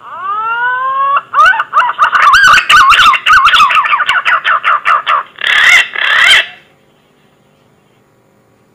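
Green pigeon (punai) calling: a rising whistle, then a fast run of wavering, warbling whistled notes, ending in two harsher notes. The call stops about seven seconds in.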